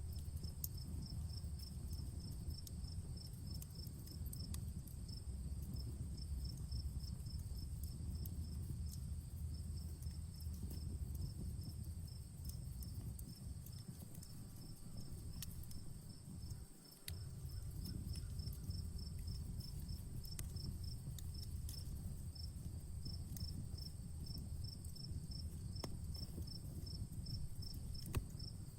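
Crackling campfire giving scattered sharp pops over a steady low rumble. Crickets chirp throughout in a fast, even pulse, over a continuous high insect buzz.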